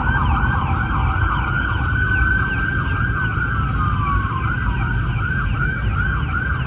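Emergency sirens in a fast yelp, rising sweeps repeating several times a second, with a second siren overlapping, over a steady low rumble.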